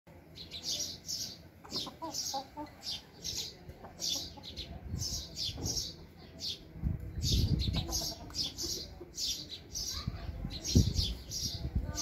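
Birds chirping in short high-pitched chirps, a couple a second throughout, among chickens, with a low rumble about seven seconds in and a thump near the end.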